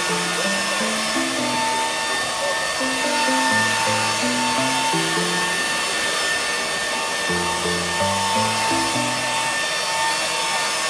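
Makita 18V cordless leaf blowers running steadily: an even rush of air with a high motor whine. Background music plays a simple melody over it.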